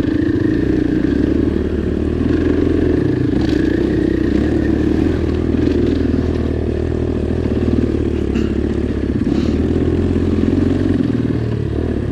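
Dirt bike engine running steadily at low, fairly even revs while riding a muddy trail, with a few light clicks and clatters from the ground and the bike.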